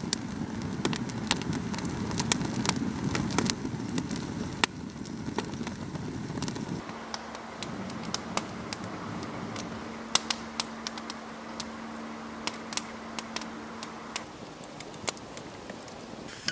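Wood campfire of spruce crackling, with irregular sharp pops throughout. A low rushing sound runs for about the first seven seconds and then drops away.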